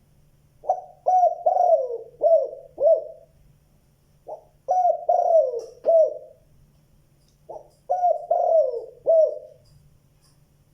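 Spotted dove cooing: three phrases of four or five low coos each, a couple of seconds apart.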